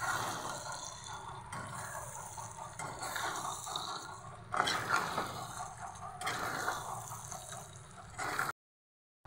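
Chicken pieces in oil and masala sizzling in a metal kadhai while a spatula stirs and scrapes them in strokes about every second and a half: the bhuna stage of frying a chicken curry. The sound cuts off abruptly near the end.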